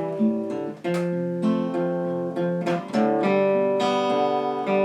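Strummed acoustic guitar playing an instrumental fill between the verses of a slow country song.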